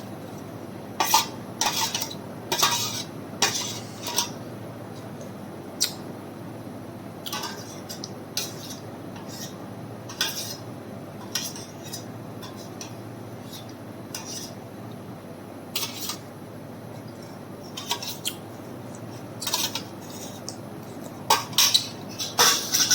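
Irregular clinks and taps of utensils against dishes, denser near the start and again near the end, over a steady low background noise.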